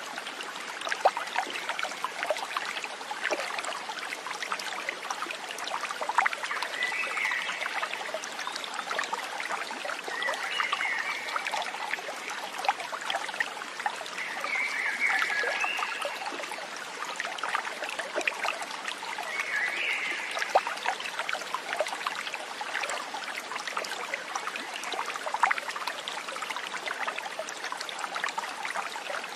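A stream trickling and babbling steadily, with four short chirping animal calls spread through the middle of the stretch.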